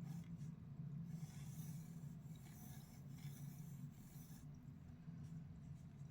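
Faint pencil scratching across paper in a run of quick sketching strokes, stopping about four and a half seconds in, over a steady low hum.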